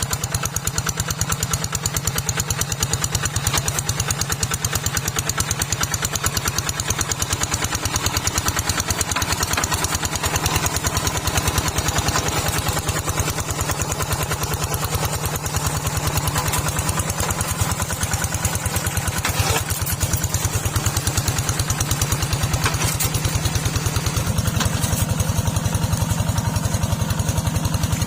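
Small tractor engine running steadily with a rapid, even chugging.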